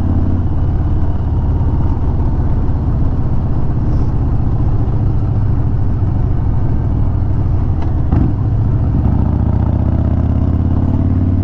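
Harley-Davidson Sport Glide's Milwaukee-Eight V-twin running steadily at cruising speed, heard from the rider's seat, with wind rush over the bike.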